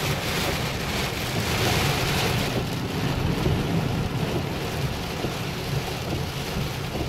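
Heavy rain pelting a car's windshield and roof, heard from inside the cabin, with a steady low road rumble underneath.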